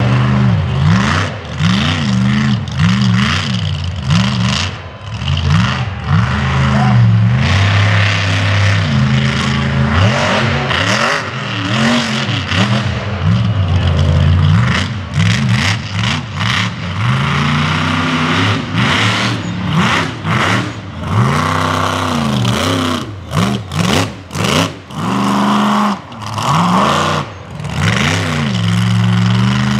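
Mega mud truck's big engine revving hard over and over, its pitch climbing and dropping every second or two, with several brief drops in the sound in the second half.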